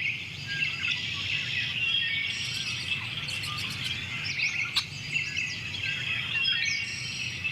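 A dense chorus of many birds chirping and calling at once, with quick rising and falling notes, over a low steady background noise.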